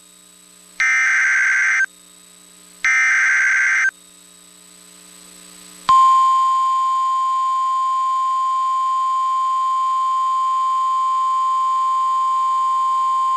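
Two short bursts of screechy digital data tones about a second apart: the SAME header that opens an NOAA Weather Radio alert. About six seconds in, a single steady, loud alarm tone starts abruptly and holds: the Weather Radio warning alert tone that comes before a warning is read out.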